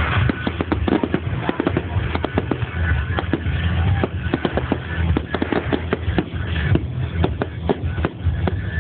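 A fireworks display: a rapid, continuous barrage of bangs and crackles, many in quick succession, with music playing underneath.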